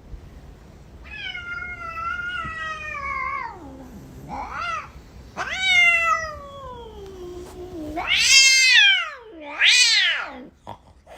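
Domestic cat meowing five times in long, drawn-out, wavering calls, some gliding down in pitch at the end. The last two are the loudest.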